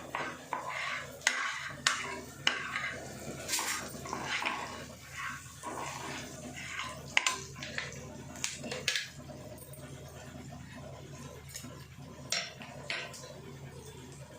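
A metal spoon or spatula scraping and clinking against a cooking pan as onions, ginger-garlic paste and turmeric are stirred together. The clinks come thickly for the first nine seconds or so, then thin out. A steady low hum runs underneath.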